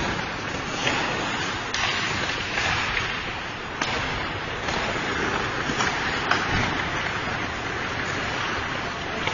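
Ice hockey rink during play: a steady hiss of skates on the ice with scattered sharp clicks and knocks.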